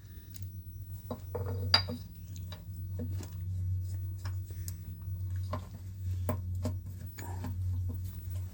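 Light metallic clinks and knocks, irregular and scattered, as a shaper's steel wedge bearing and its parts are handled and fitted back into place, over a steady low hum.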